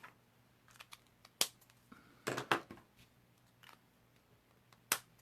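About seven sharp plastic clicks and taps at irregular intervals from handling alcohol blending markers: caps pulled off and snapped back on and pens set down while switching colours.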